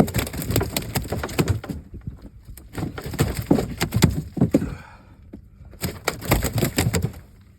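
Bursts of rapid knocking and clattering impacts in three bouts, with short quieter gaps between them.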